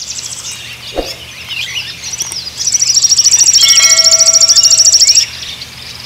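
Songbird chirping and tweeting, then a loud, rapid trill of evenly repeated high notes from about two and a half to five seconds in. A short soft knock comes about a second in, over a faint low hum.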